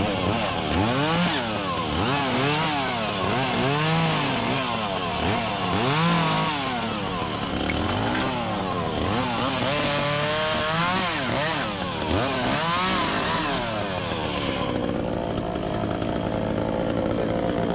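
Echo CS-400 two-stroke chainsaw revving up and down over and over as it cuts, then settling to a steadier, lower note about 15 seconds in. A steady low engine hum runs underneath.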